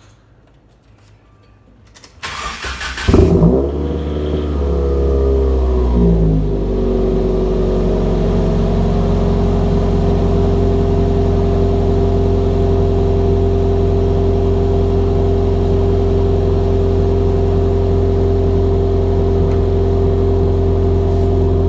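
2017 Subaru WRX's turbocharged flat-four, breathing through an AWE Track cat-back exhaust and a catless Invidia J-pipe, cold-started. About two seconds in the starter cranks briefly, the engine catches with a loud flare, then settles within a few seconds into a steady high cold idle.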